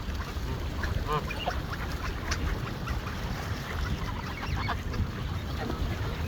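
A flock of geese and mallard ducks calling: repeated short honks and quacks, several overlapping, over a steady low rumble.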